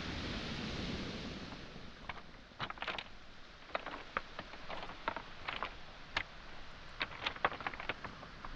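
Wave wash on a shingle shore fading over the first couple of seconds, then footsteps on beach pebbles and small stones: irregular clusters of sharp clacks and crunches.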